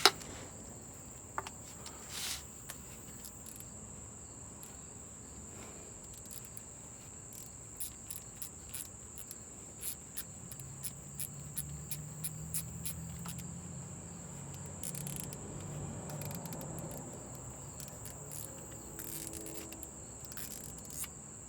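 Crickets chirping in a steady high trill, with scattered light clicks from a transmission pan bolt being worked loose with a ratchet.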